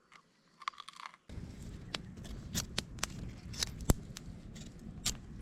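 Knife whittling a wooden stick to a point, irregular sharp cuts and scrapes of the blade on wood, starting about a second in over a low outdoor background.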